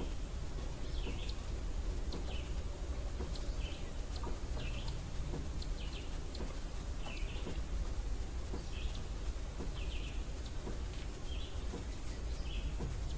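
A small bird chirping over and over, short high chirps about once a second, over a steady low rumble.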